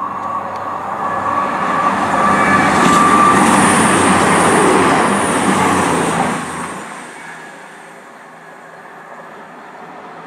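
CrossCountry Voyager diesel multiple unit passing through non-stop. The rushing engine and wheel noise builds over the first couple of seconds, is loudest in the middle, then drops away quickly about seven seconds in as the train recedes.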